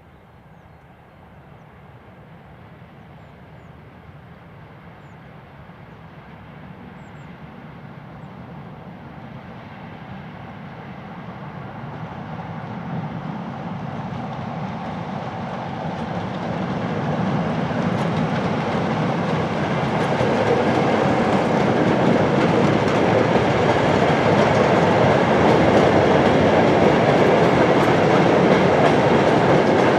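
A train approaching along the line, its running noise growing steadily louder over about thirty seconds.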